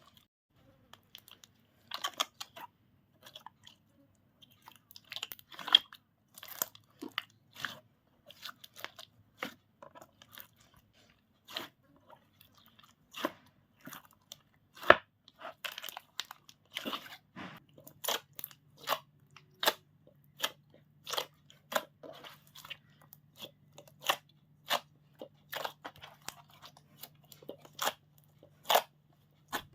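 Slime being squished and kneaded by hand, with an irregular series of sharp wet clicks and pops. A faint low steady hum comes in about halfway through.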